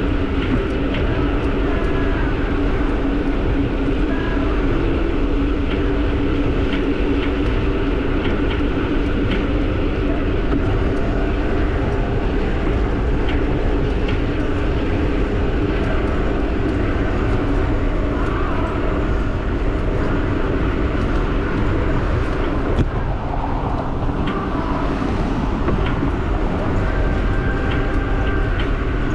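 An e-bike being ridden: steady wind on the microphone and tyre noise, with a faint low hum and scattered faint ticks.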